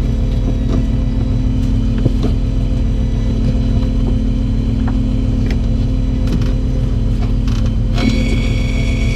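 A fishing boat's engine running with a steady low drone. About eight seconds in, a higher steady whine joins it.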